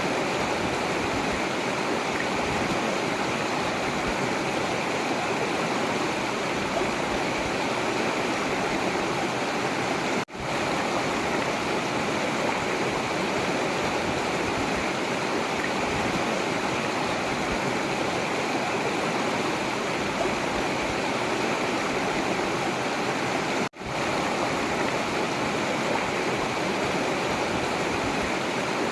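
Forest river water flowing steadily, a constant rushing of running water. The sound cuts out for a split second twice, about 10 and 24 seconds in.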